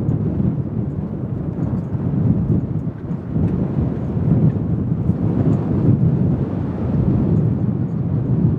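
Four-engined Airbus A380's Rolls-Royce Trent 900 jet engines giving a loud, deep, uneven rumble.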